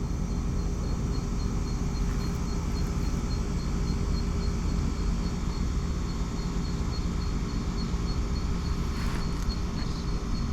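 Steady rumble of a running Toyota Hiace camper van heard from inside, with a faint high chirp pulsing about three times a second throughout.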